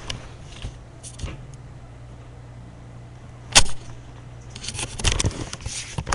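Toy farm tractor being handled: a sharp knock about three and a half seconds in, then a run of small clicks and rustles near the end, over a steady low hum.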